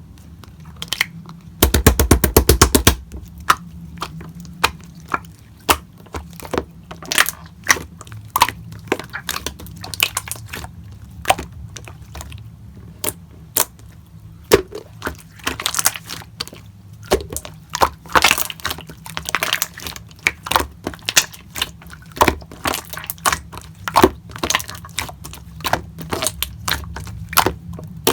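Slime being kneaded and pressed by hand, giving irregular sharp clicks and crackling pops as trapped air bursts. About two seconds in there is a quick run of rapid clicks lasting about a second.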